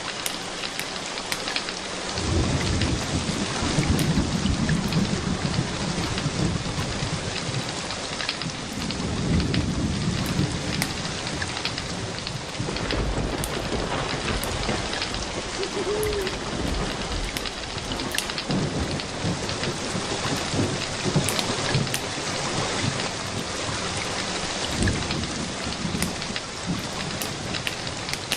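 Steady rain falling, with low rolling rumbles of thunder that start about two seconds in and swell and fade several times.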